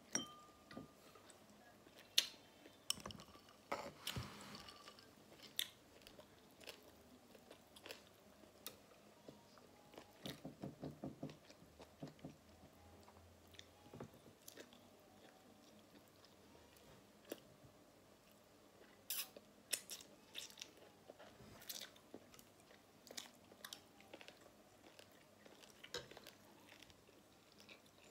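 Faint close-miked chewing and biting of pork, with scattered sharp clicks and a run of quick chewing strokes about ten seconds in.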